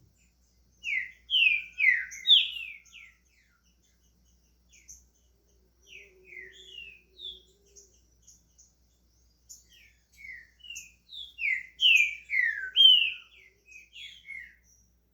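Green-winged saltator (trinca-ferro) singing: a loud phrase of quick, clear descending notes about a second in, softer scattered notes in the middle, and a second loud phrase near the end.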